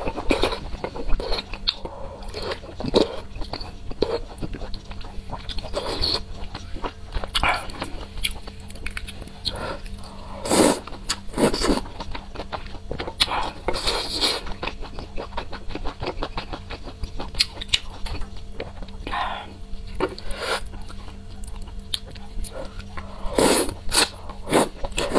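Close-miked mukbang eating sounds: wet chewing, lip smacks and slurping of soft slices of food from a spicy broth, in short irregular bursts.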